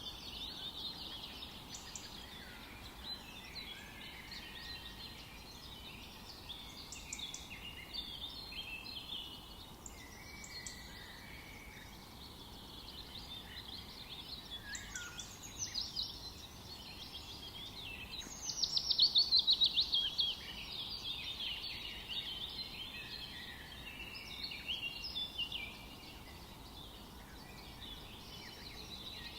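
Several songbirds singing and chirping at once, with overlapping high chirps and trills throughout. A louder, rapid trill stands out for about two seconds around two-thirds of the way in, over a faint steady background hiss.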